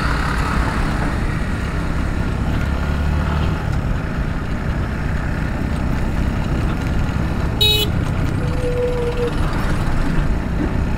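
Steady riding noise of a motorcycle in highway traffic: engine, tyres and wind on the microphone. A short vehicle horn toot sounds about eight seconds in, with a fainter, longer horn note just after.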